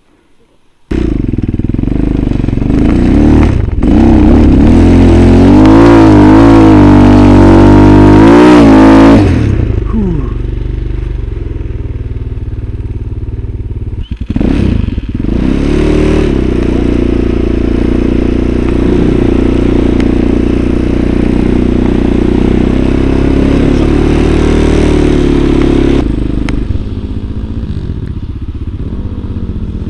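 Motorcycle engine cutting in loudly about a second in, its revs climbing and wavering for several seconds, then easing off. After a brief drop in the middle it runs on steadily, a little lower near the end.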